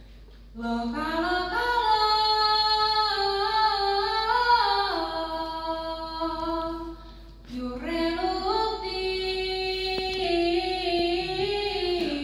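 A woman singing a Sámi joik-song (liutt) in long held notes that step up and down in pitch, in two phrases with a short breath between them about seven and a half seconds in.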